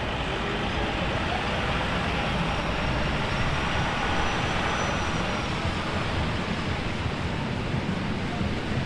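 Steady traffic noise on a rain-soaked city street: a constant hiss of rain and wet tyres over a low vehicle rumble.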